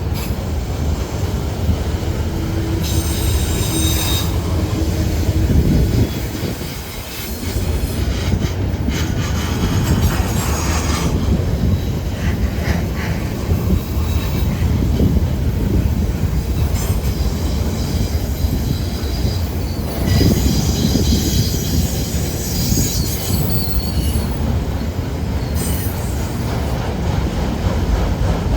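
A CSX freight train's cars rolling past with a steady, loud rumble. The steel wheels squeal high on and off throughout.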